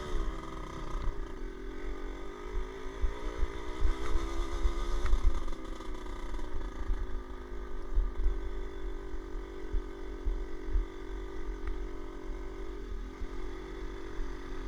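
Motorcycle engine running steadily at moderate revs, its pitch wavering slightly, with an uneven low rumbling underneath.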